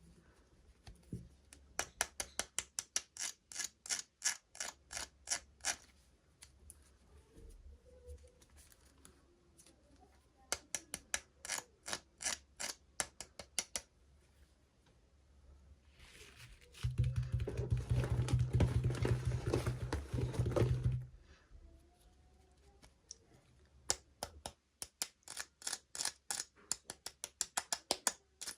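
Hands handling toy packaging: runs of quick small clicks, about four or five a second, and a few seconds of dense rubbing or rustling noise past the middle.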